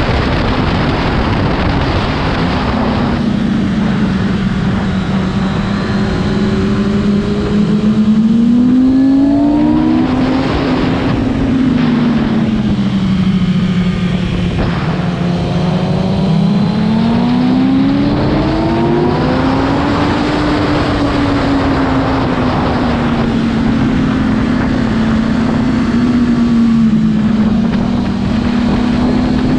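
Motorcycle engine running at speed, its pitch climbing under throttle and falling back several times, over a constant rush of wind noise.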